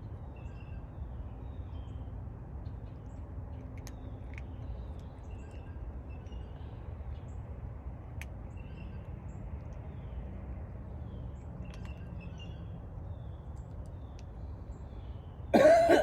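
Outdoor background noise with faint, scattered bird chirps. Near the end comes a loud, short vocal sound whose pitch falls sharply.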